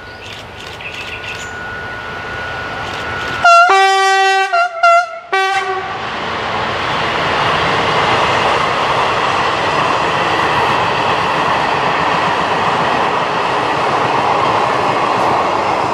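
Diesel locomotive approaching and sounding its horn in a few short, loud blasts about three and a half to five and a half seconds in. Then the steady rolling noise of a train of historic coaches passing on the rails, with a clickety-clack.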